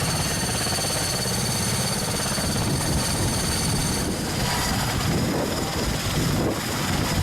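Mi-26 heavy-lift helicopter running on the ground before takeoff, its twin turboshaft engines giving a steady high whine over the rapid low beat of the turning main rotor.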